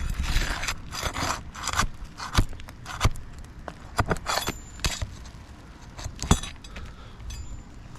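Irregular sharp metallic clicks and clinks with scraping between them, from nail-pulling work on asphalt roof shingles: a tool and nails being handled and shingles shifted.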